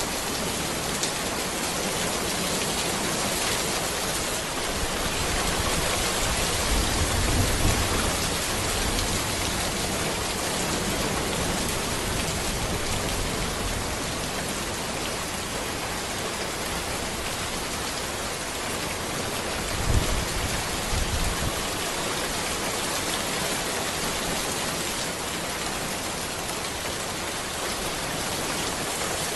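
Steady rain falling on a road, an even hiss of many drops. Low rumbles swell under it around a quarter of the way in, with a sharper one about two-thirds through.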